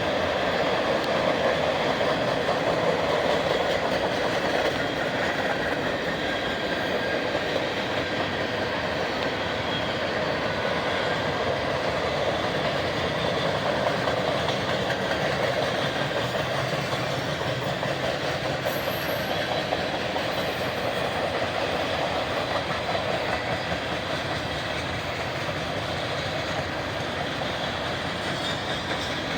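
Freight train cars rolling past on the rails, a steady, even rolling noise of steel wheels on track that carries on without a break.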